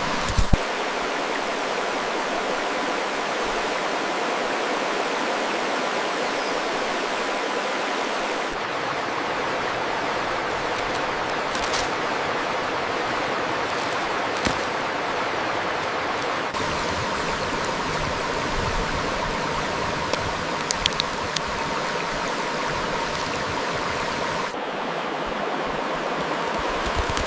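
Steady rushing of running water, like a small stream. The noise shifts abruptly in tone three times, and a few brief sharp ticks sound now and then.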